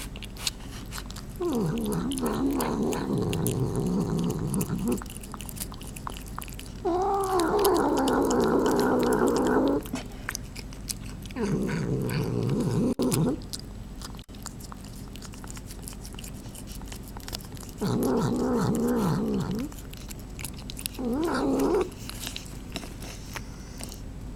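Long-haired white cat making drawn-out, wavering calls while eating: five separate calls of one to three seconds each, with chewing clicks between them.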